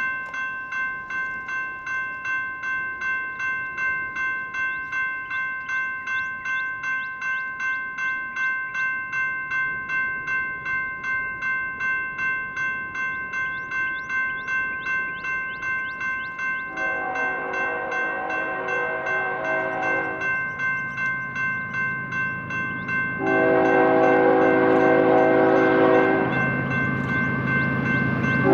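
Grade-crossing warning bell ringing steadily at about two strokes a second. A little past halfway a diesel locomotive's horn sounds two long blasts and starts a third near the end, while the rumble of the approaching train grows louder.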